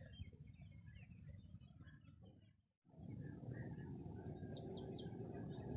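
Faint chirping of small birds over a low background rumble. The sound drops out briefly about halfway and comes back a little louder, with a few sharper, higher chirps soon after.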